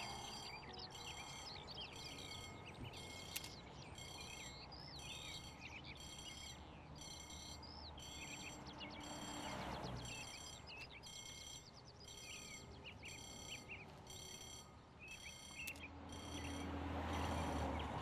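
Birds chirping and calling in short, sliding high notes, over a rapid, regular high pulse about twice a second. A few slow swells of rushing noise rise and fall: near the start, about ten seconds in, and near the end.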